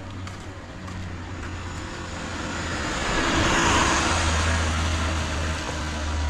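A car passing on a wet road. The hiss of its tyres on the wet surface swells to a peak about halfway through and then fades, over the low rumble of the engine.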